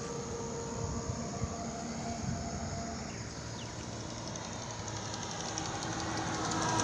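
A vehicle running, a steady low rumble with noise across the range that grows louder near the end.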